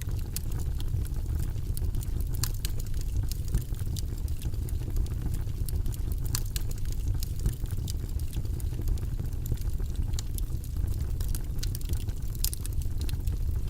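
Wood fire burning in a fireplace: a steady low roar of flames with irregular crackles and pops of burning wood scattered throughout.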